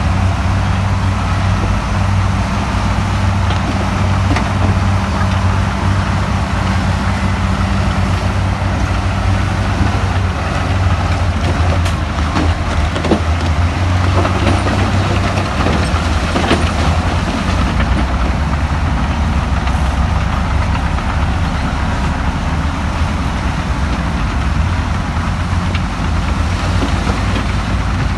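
Heavy construction machine's diesel engine running steadily, with a few knocks and clatters in the middle.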